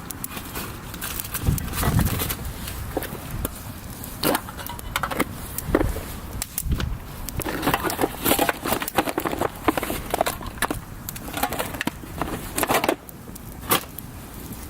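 Wood campfire crackling and popping in irregular sharp clicks, busiest in the second half, with a few dull low knocks.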